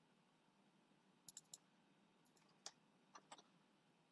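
Faint computer mouse clicks, otherwise near silence: a quick run of three, a single click, then two close together.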